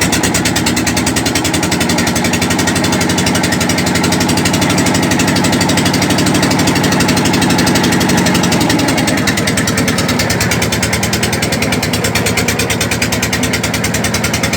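An engine-driven machine running steadily with a fast, even pulsing beat.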